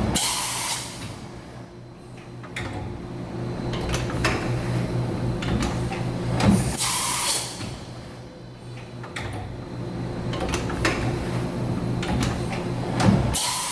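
Tool magazine of a Mazak HCN 4000-III horizontal machining center moving and indexing, with clunks and clicks over the machine's steady hum, and three short loud bursts of noise about six seconds apart.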